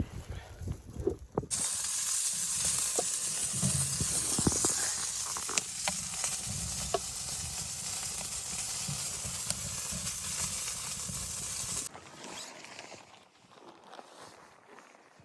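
Food sizzling in a hot pan: a steady frying hiss with a few sharp pops, cutting in abruptly about a second and a half in and stopping abruptly near the end, with quieter shuffling before and after.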